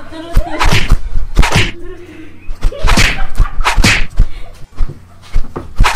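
A rapid series of sharp slaps and knocks, irregularly spaced, with brief wordless vocal bursts about one second in and about three seconds in.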